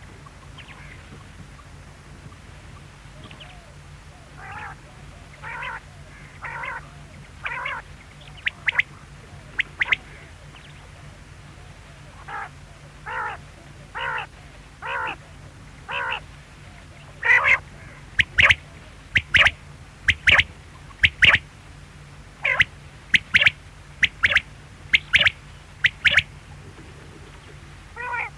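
Quail calling over and over, about once a second. The calls start softer and become louder and sharper from about two-thirds of the way in. A steady low hum runs underneath.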